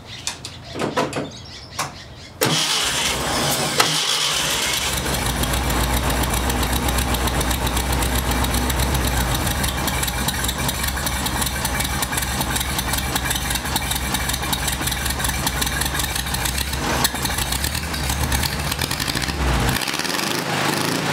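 Cold start of an air-cooled 36-horsepower VW flat-four: the starter cranks about two seconds in, the engine catches a moment later, and it runs on steadily at a cold idle.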